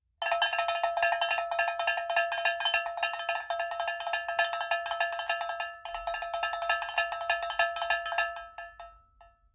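Rapid metallic tapping, many strikes a second over a steady ringing tone, with a short break about six seconds in, then dying away near the end.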